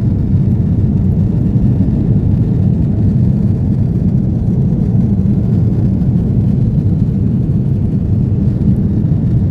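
Steady drone of jet engines and rushing air inside an airliner cabin, a constant low rumble with no changes.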